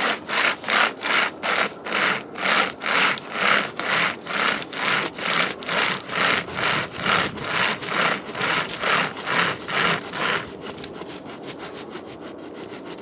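Hand-pulled chain saw cutting through a dry firewood log with steady back-and-forth strokes, about two to three a second. The sawing stops about ten seconds in, and lighter, quicker scraping follows.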